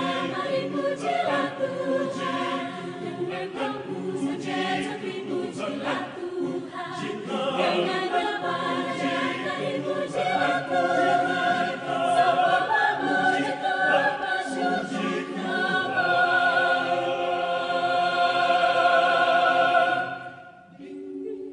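Mixed adult choir singing in harmony, building to a long, loud held chord that cuts off near the end.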